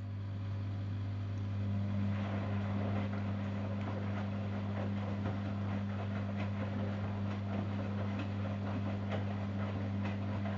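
Zanussi Jetsystem Turbodry ZWD 1000 washing machine running, with a steady low electrical hum and irregular clicking and swishing over it.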